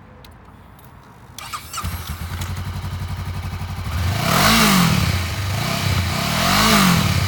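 2016 Honda CB500F's parallel-twin engine cranked on the electric starter, catching after about half a second and idling. It is then revved twice, each rev rising and falling back to idle.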